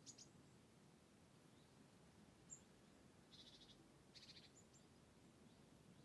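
Near silence with faint songbird chirps: a few short high notes and two quick trills about three and four seconds in.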